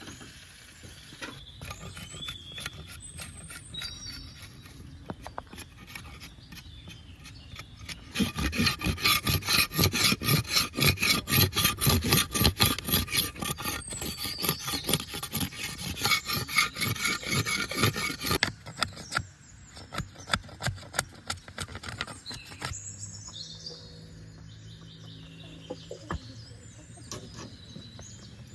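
Repeated rasping strokes, like scraping or grating, about three a second: light at first, much louder through the middle, then stopping. Bird chirps follow near the end.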